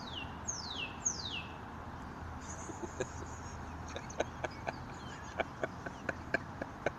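A bird calling: three quick high whistles sliding downward, a short high note, then a run of short sharp clicks.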